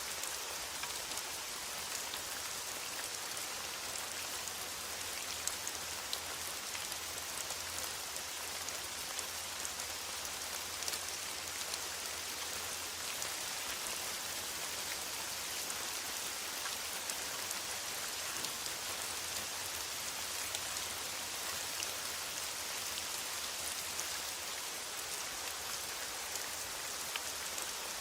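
Steady rain falling in a forest, an even hiss dotted with the fine patter of individual drops.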